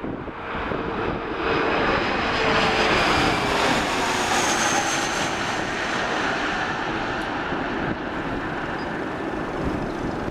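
Airliner passing close on landing: its engine noise swells about a second in, is loudest for a few seconds with a high whine, then eases slightly and holds steady.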